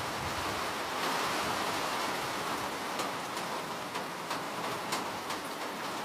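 Steady rain, an even hiss with a scattering of individual drop ticks, more of them in the second half.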